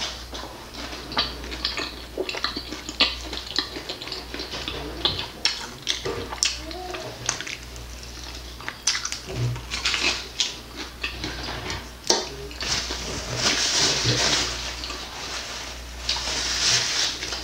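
Close-miked eating of crispy barbecue chicken wings dipped in ranch: irregular crunching, wet chewing and smacking mouth sounds with many small clicks. Near the end a paper napkin rubs across the mouth.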